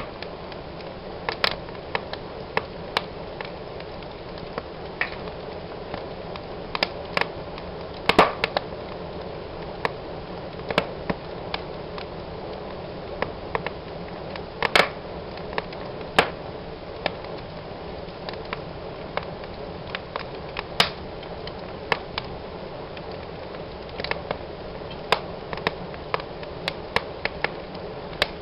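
Wood fire burning in a fireplace: a steady low rush of flames with irregular sharp crackles and pops from the burning logs, a few of them louder.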